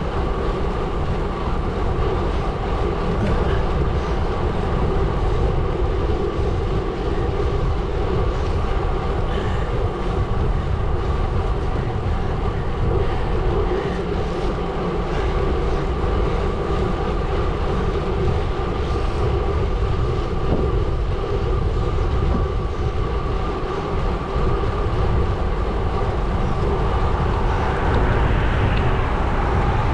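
Gravel bike rolling over a gravel road: a steady rumble from the tyres on loose gravel.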